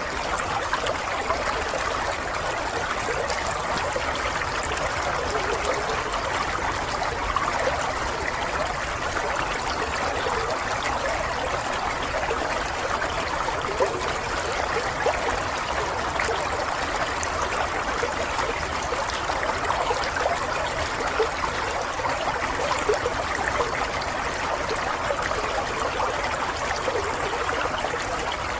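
Small stream of running water, a steady babbling trickle with many small splashes.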